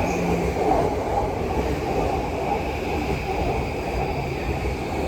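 Yamanote Line electric commuter train running alongside the station platform, a steady rumble.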